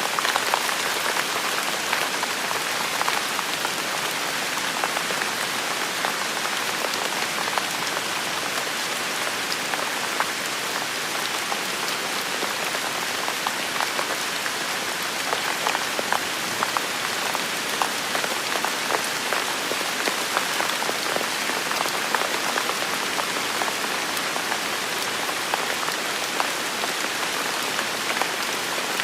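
Steady rain falling and pattering on hard surfaces, with dense individual drop impacts; no thunder.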